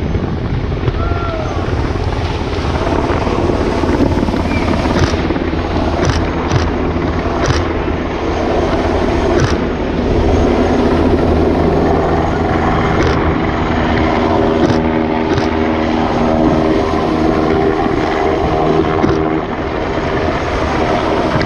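Military helicopter flying in a display, its rotor and turbine running loudly and steadily, with the rotor's steady tones clearest in the second half.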